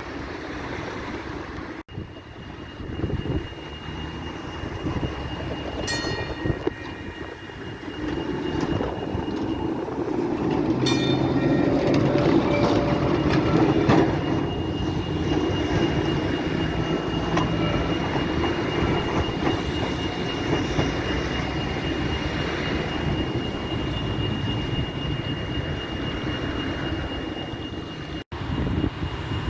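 A tram running past on its rails, its rumble swelling to a peak about halfway through and then holding steady, with a thin, steady high whine. Two short ringing tones sound, about six and eleven seconds in.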